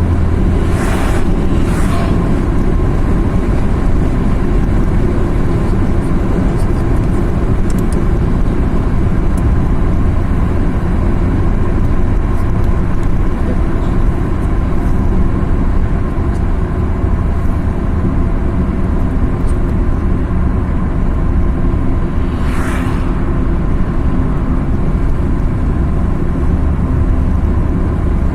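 A car driving along a mountain highway: a steady engine and tyre rumble, with a few brief whooshes about a second in and again about 22 seconds in.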